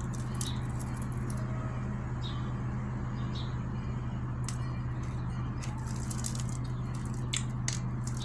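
Eating sounds: short clicks and crackles of chewing, thickest in the second half, over a steady low electrical hum.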